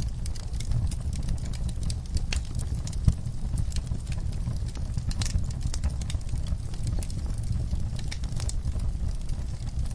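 Wood fire burning in a fireplace: a steady low rumble of the flames with frequent sharp crackles and pops from the logs, one louder pop about three seconds in.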